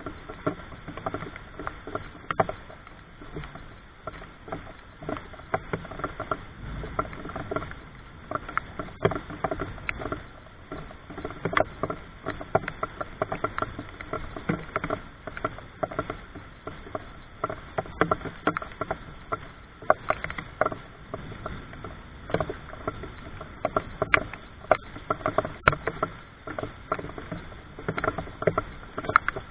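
Rain falling, heard as a steady hiss with many irregular sharp drips and taps, dense and uneven throughout.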